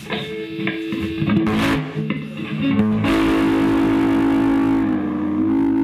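Electric guitar played through a Fender tube guitar amp with master and volume at half and the guitar's volume full up: a few single notes and strums, then a chord struck about three seconds in that rings on cleanly. It is a playing test of the amp after new filter capacitors were fitted to cure its distortion and breakup.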